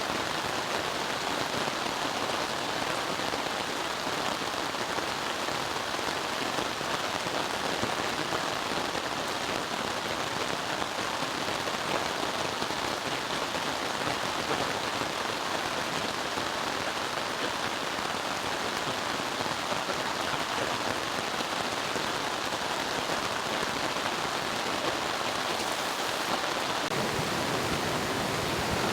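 Steady rain drumming on a Hilleberg Tarp 10 UL tarp, a dense, even patter of drops.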